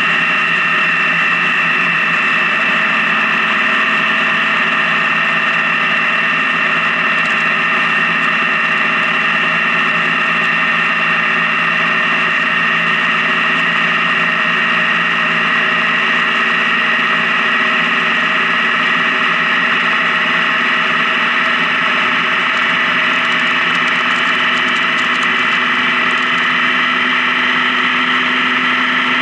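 Honda Gold Wing touring motorcycle's engine running steadily at cruising speed, heard from on the bike, its pitch sagging slightly and then climbing a little near the end.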